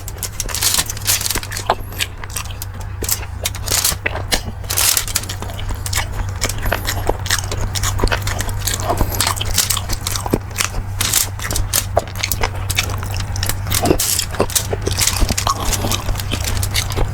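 Close-miked eating of beef bulalo, beef shank and marrow stew: biting and chewing with many short sharp clicks and crackles, over a steady low hum.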